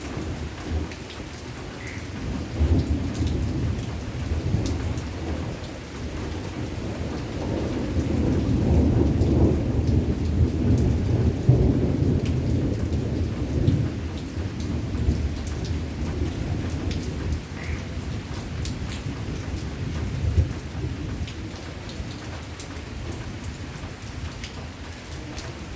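Rain falling steadily with thunder rumbling through it. The rumble builds a couple of seconds in, is loudest in the middle and slowly fades.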